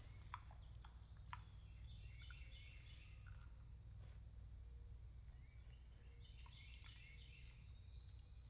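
Near silence with a low steady hum and faint bird chirps in two short runs, one about two seconds in and one near the end.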